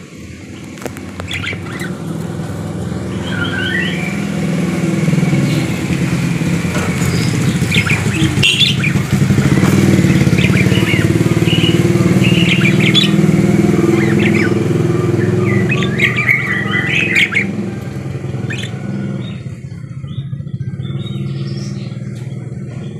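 Budgerigars chirping and twittering in short bursts, over a steady motor engine hum that swells to its loudest in the middle and fades near the end, like a vehicle passing by.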